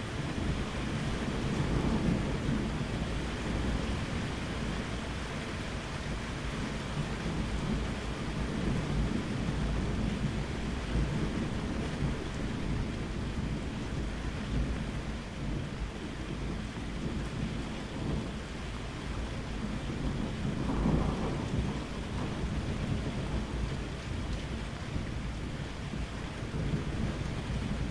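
Steady rain with rolling thunder, the rumble swelling about two seconds in and again near twenty-one seconds.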